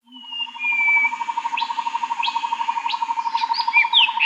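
Birds chirping, with a rapid pulsing trill running underneath and separate whistled notes and sweeps. A quick run of falling chirps comes in near the end.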